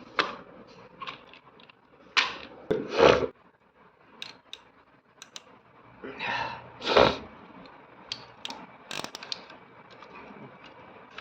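Irregular clicks, knocks and scraping, as of plastic toys being handled and moved about, with louder scraping rustles about two, three, six and seven seconds in.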